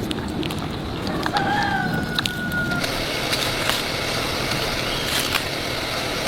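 Rooster crowing once, a long held call about a second in, over a background of scattered clicks and rustling.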